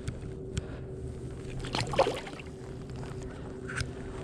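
Small knocks and water sounds around a fishing kayak, with a few short clicks and one louder brief knock about two seconds in, over a steady low hum.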